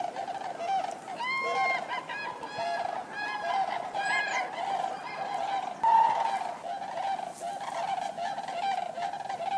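A flock of common cranes calling, with many overlapping trumpeting calls throughout. A run of louder, nearer calls comes in the first half, and another loud call comes past the middle.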